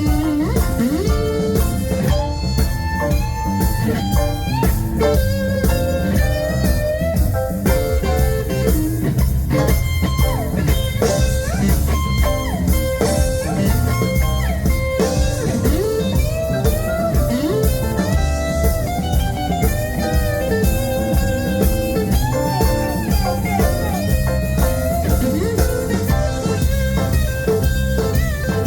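Live blues band playing an instrumental break: an electric guitar leads with bent notes over bass and a steady drum beat.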